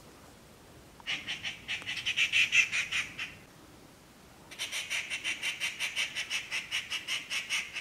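A bird calling in two bouts of rapid, evenly repeated high notes, about six a second: a louder bout from about a second in lasting two seconds, then a longer one starting about halfway through.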